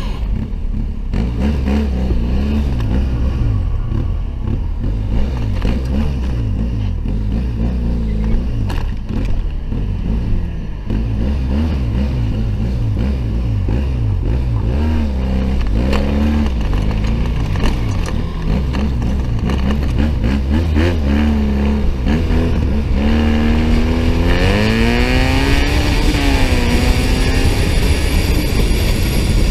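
Motorcycle engine at speed, revving up and down through the gears with its pitch rising and falling, over steady wind and road noise. A strong hiss joins in about three-quarters of the way through.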